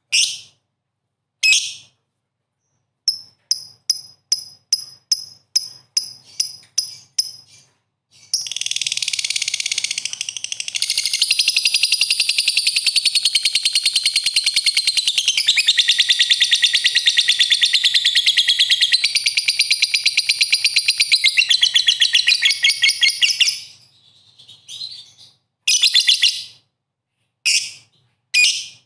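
A songbird calling and singing: a few short sharp calls, then a run of about a dozen repeated high notes at roughly two a second, then a long, fast, continuous chattering song lasting about fifteen seconds, ending in more short separate calls. The gaps between parts are completely silent, as in an edited recording of bird song.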